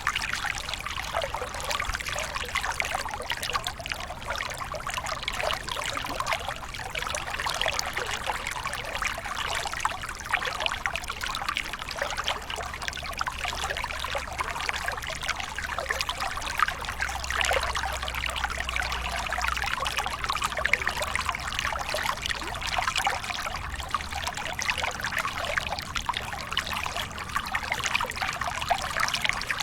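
Small waterfall: water splashing and trickling steadily without a break.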